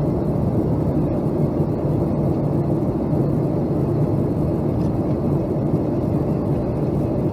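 Boeing 757-200 cabin noise in flight on descent: a steady low roar of engines and air rushing past the fuselage, with a constant hum underneath.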